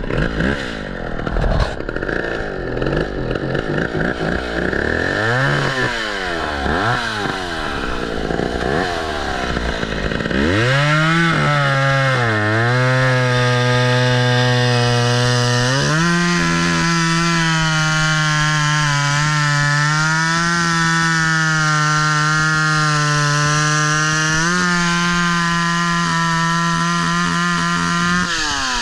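Chainsaw cutting wood. For the first ten seconds or so its revs rise and fall repeatedly. Then it holds high, steady revs: the pitch sags briefly as the chain bites and steps up twice later on.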